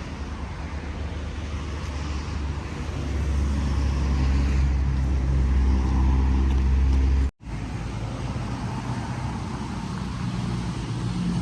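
Road traffic: a motor vehicle's engine running nearby as a steady low hum, growing louder about three seconds in. The sound cuts out completely for a moment about seven seconds in, then the hum resumes.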